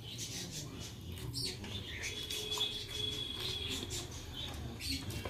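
Close-up eating sounds of a person chewing soft rice eaten by hand: wet mouth clicks and lip smacks. A thin, steady high tone sounds faintly for about two seconds in the middle.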